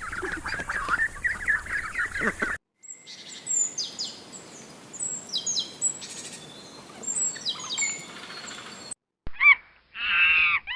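Ducks quacking together, cut off abruptly about two and a half seconds in. Then come about six seconds of sparse, high, short downward chirps from small birds, and after a brief gap a loud pitched call near the end.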